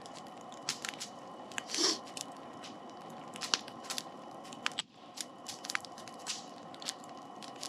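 Crunching bites and chewing of a brat on a baguette, over a campfire crackling with scattered sharp pops and snaps.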